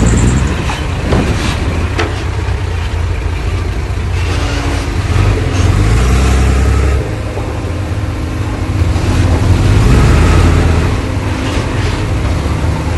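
Heavy diesel engine of earthmoving machinery running under load, swelling louder twice, about five seconds in and again about ten seconds in. A few sharp knocks sound in the first two seconds.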